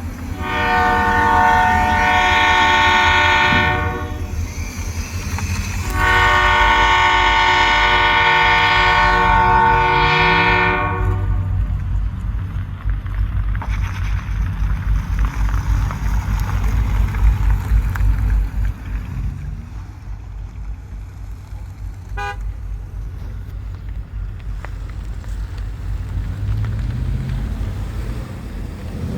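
Diesel locomotive horn sounding two long blasts, the second about five seconds long, then the low rumble of the departing train.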